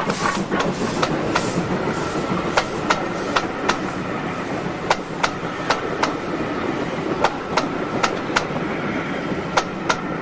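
Passenger coaches of a heritage steam train rolling past, their wheels clicking over the rail joints in regular quick groups over a steady rumble.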